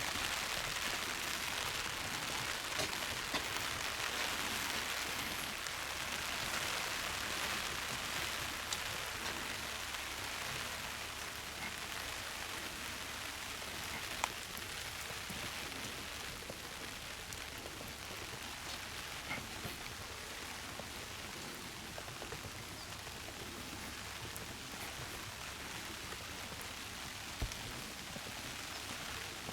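Steady rain falling, a little lighter after about twelve seconds, with a few sharp drop ticks.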